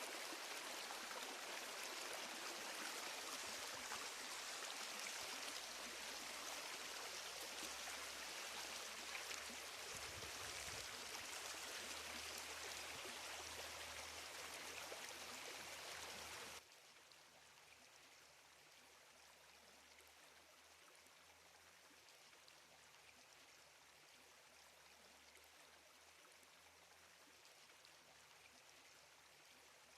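Running water of a stream, a steady rushing hiss; a little past halfway it cuts abruptly to a much fainter hiss.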